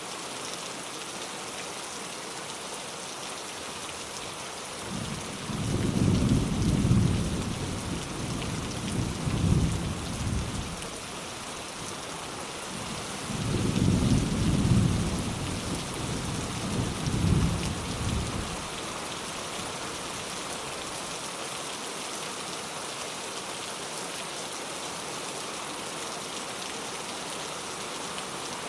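Steady rain with light thunder: two low rolls of thunder, the first starting about five seconds in and the second about halfway through, each swelling twice before fading back into the rain.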